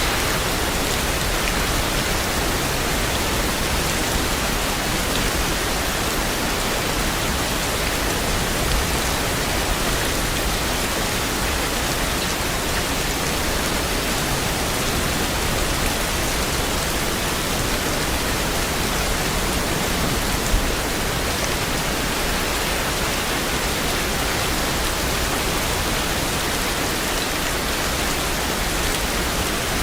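Steady heavy rain, an even unbroken hiss of drops, with one sharper tap about two-thirds of the way through.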